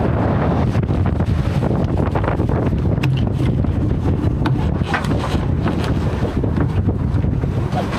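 Wind buffeting the microphone aboard a sailboat under sail, over the steady rush of water past the hull. Brief sharp knocks or splashes come now and then, several of them from about three seconds in.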